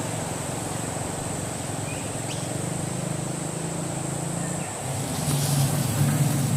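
A steady low engine hum that drops out briefly about five seconds in and comes back louder, over a constant high-pitched whine.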